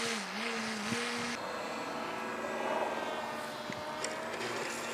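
Radio-controlled model airplane's motor and propeller droning, the pitch swinging up and down with the throttle. About a second and a half in, it changes abruptly to a fainter, steadier drone that slowly rises in pitch.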